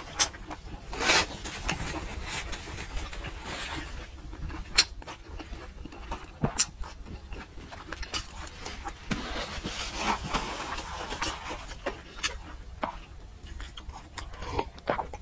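Close-miked mouth sounds of a person chewing: scattered wet clicks and soft rubbing noises. Near the end come gulps as she drinks from a glass.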